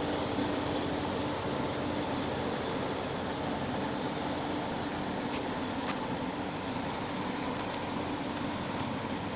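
Steady mechanical hum with a constant low tone and no change in pitch or level, with a single faint tick about six seconds in.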